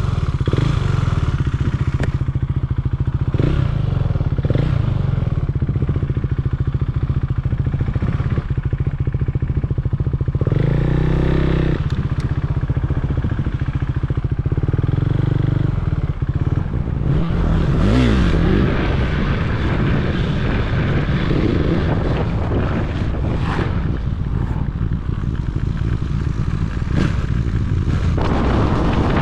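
Motorcycle engine running steadily while riding, its note shifting a couple of times along the way.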